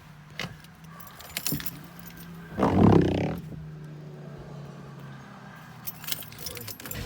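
Keys jangling and clicking, then the 2005 Mercedes S600's twin-turbo V12 cranks and fires about two and a half seconds in with a short loud flare. It settles into a steady fast idle, typical of a cold start after the car has stood for a week.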